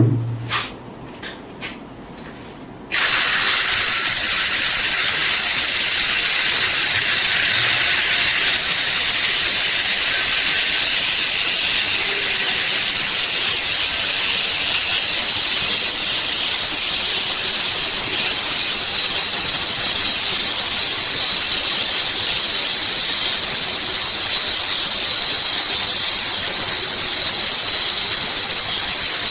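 A power tool running steadily with a loud hiss, starting about three seconds in after a thump and a few clicks.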